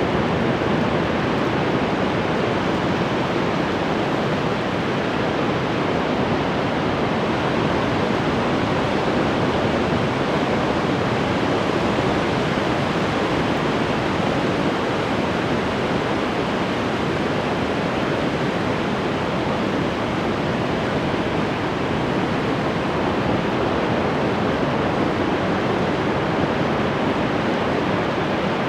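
Ocean surf washing on the shore in a steady, even rush, with no single breaking wave standing out.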